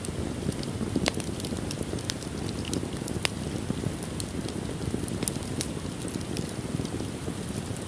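Wood fire burning in a fireplace: a steady low rush of flames with scattered sharp crackles and pops from the burning wood.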